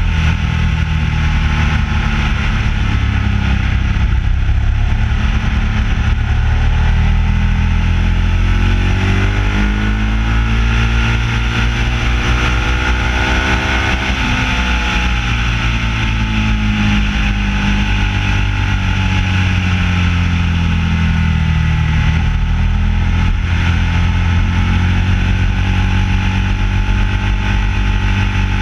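Ducati 1199S motorcycle's V-twin engine running under way, heard close from a bike-mounted camera. The engine note climbs steadily for several seconds about a third of the way in, eases back down over the following several seconds, then holds steady.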